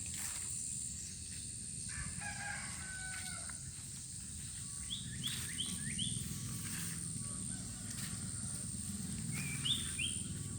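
A rooster crows once, starting about two seconds in. Short high bird chirps come in a run of four midway and twice more near the end. Underneath is a steady low rush of water and a constant high whine.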